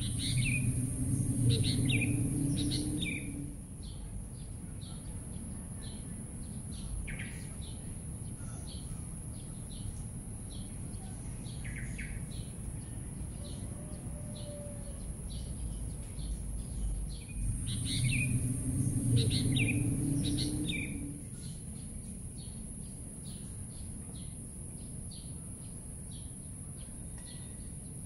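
Small birds chirping in short, repeated calls over a steady high hiss. A low hum swells in twice, once at the start and again a little past halfway.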